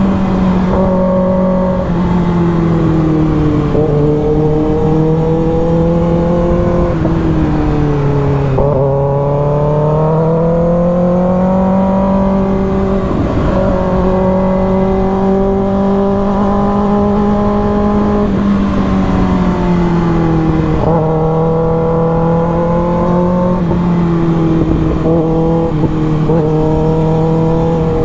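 Superbike engine running continuously at high revs, its pitch slowly easing down and climbing back up several times, lowest about 8 seconds in.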